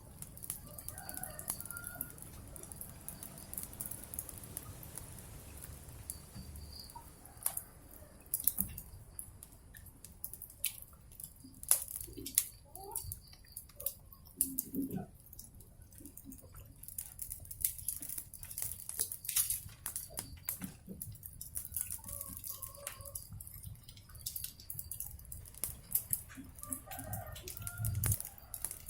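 Wood fire crackling with frequent sharp pops and a steady hiss, while chickens cluck in short calls every few seconds.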